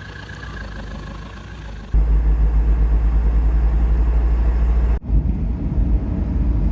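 Low rumble of a moving vehicle. It jumps suddenly much louder about two seconds in and changes abruptly again about five seconds in.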